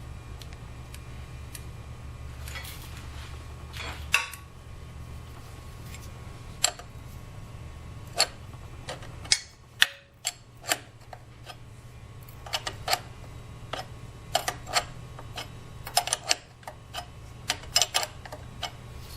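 Irregular sharp metallic clicks and taps of hand tools on motorcycle chain and sprocket parts, some in quick clusters, over a steady low hum.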